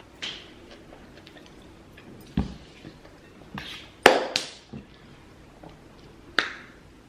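A few short knocks, clicks and rustles of objects being handled, the loudest a sharp knock about four seconds in and a duller thud a little before.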